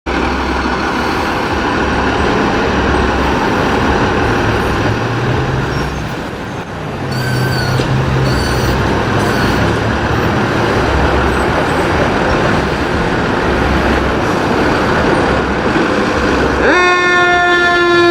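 A 2012 KME fire engine's diesel engine running with a loud, low pulsing rumble. Near the end its air horn comes in with a quick upward slide into one long, steady blast.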